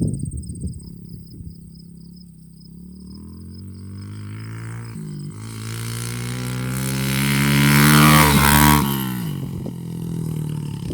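Small dirt bike engine accelerating, its pitch climbing with a brief dip about five seconds in. It gets loudest around eight seconds in, then the pitch falls sharply near nine seconds.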